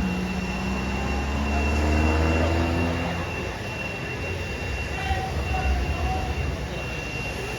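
A vehicle engine running and rising in pitch over about three seconds as it accelerates, over a deep rumble, then fading to a fainter rumble. A thin steady high whine runs underneath.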